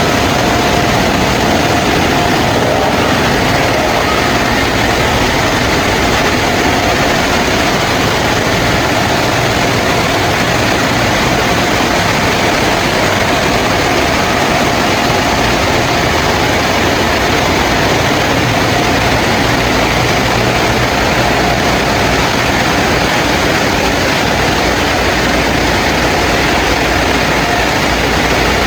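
PDQ ProTouch Tandem touchless automatic car wash running: a loud, steady rushing noise with a faint steady whine.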